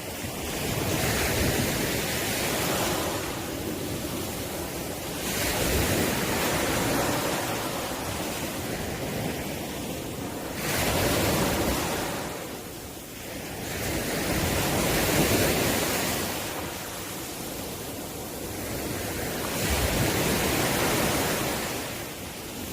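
Ocean waves breaking on the shore: the surf rushes in and draws back in repeated swells, about one every four to five seconds.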